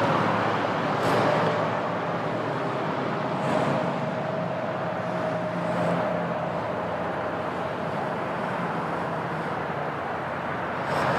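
Steady outdoor hum of road traffic, with a few short swishes standing out over it.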